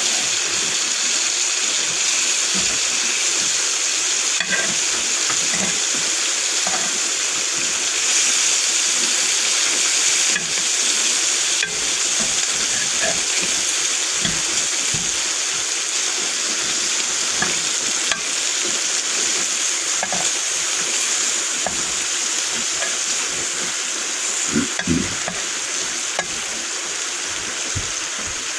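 Food frying in a pan on a small butane camp stove: a steady sizzle with scattered small pops.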